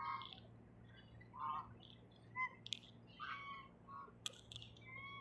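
Ducks calling: a scatter of short quacks and squawks, with a few sharp clicks in between.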